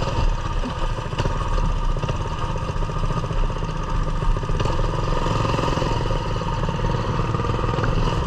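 Coleman mini bike's small single-cylinder four-stroke engine running steadily.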